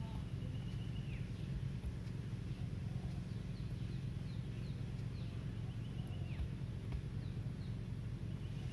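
Small birds calling: a held high whistle that drops off sharply, repeated a few times, with short falling chirps in between. Under them runs a steady low hum, the loudest sound throughout.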